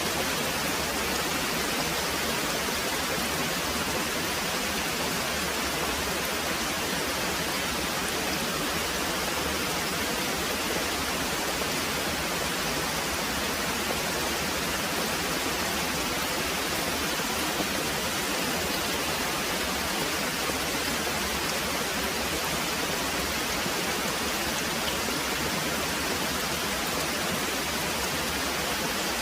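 Very heavy rain pouring steadily, an even hiss that neither rises nor falls.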